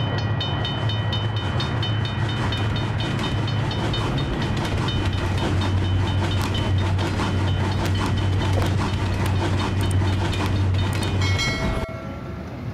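Train sound effect: a steady low rumble with regular clicks of wheels over rail joints. Near the end it cuts off and gives way to quieter outdoor background noise.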